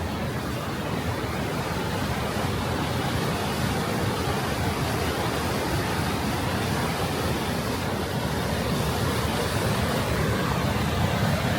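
Steady rushing of falling water from Düden Waterfall, an even noise that grows slightly louder over the first few seconds.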